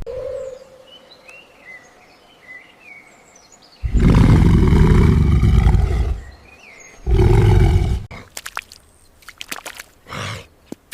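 A large animal gives two deep, rough roars: a long one of about two and a half seconds, then a shorter one, followed by a few sharp clicks near the end.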